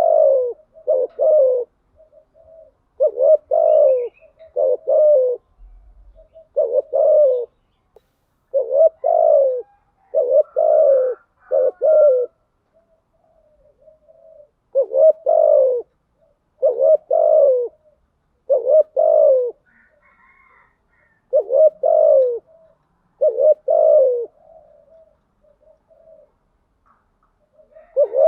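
Spotted dove cooing over and over. Short falling coos come in pairs and triplets, with a new phrase every second or two.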